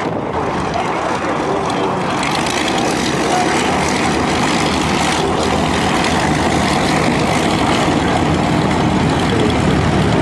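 Propeller-driven piston-engined aircraft flying overhead: a loud, steady engine and propeller drone that grows a little louder about two to three seconds in and then holds.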